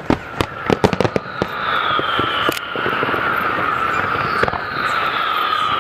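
Firework display: a quick run of sharp bangs and cracks, then a long whistling tone that slowly falls in pitch under scattered crackling.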